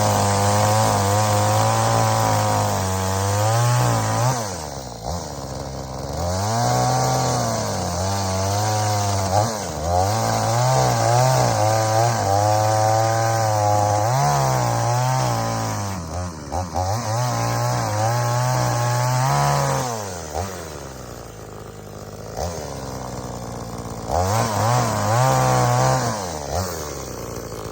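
Cheap 20-inch gas chainsaw cutting up a fallen tree, its two-stroke engine revving high and holding through each cut, then dropping back toward idle, about five times over. Near the end it settles at a lower idle.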